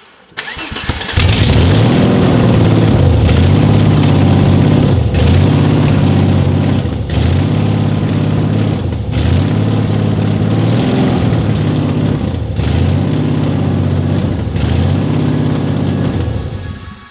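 BMW S50B30 inline-six engine catching about a second in, then running with its revs rising and falling every couple of seconds on their own: a hunting idle that the owners think seems like a massive vacuum leak or a sticking, kinked throttle cable.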